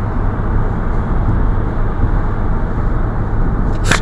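Steady low rumble of vehicle noise, with a sharp click near the end.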